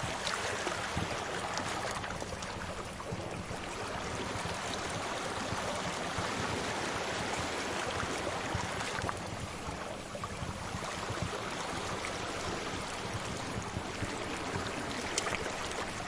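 Waves washing on a shore in slow swells, mixed with a crackling fire giving off scattered small sharp pops.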